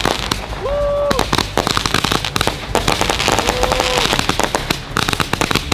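Homemade multi-shot firework cake, built from cheap cakes tied together, firing shot after shot: a dense, continuous run of rapid bangs and crackling bursts.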